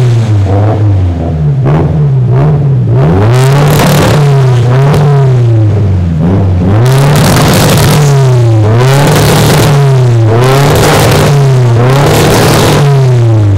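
Mazda RX-8's two-rotor Wankel rotary engine being revved over and over, the pitch climbing and dropping back roughly once a second. It is so loud that the microphone distorts.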